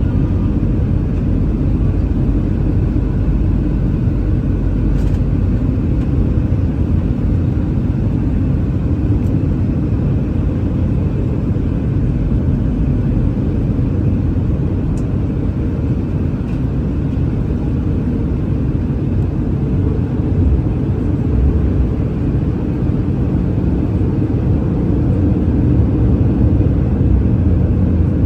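Airbus A319 cabin noise in flight: a steady low rumble of the engines and airflow.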